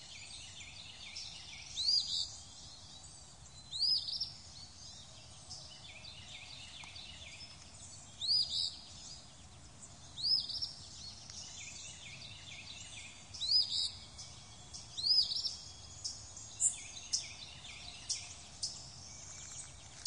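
Quiet outdoor bird ambience: one bird repeats a short rising call every two seconds or so, over faint chirping from other birds.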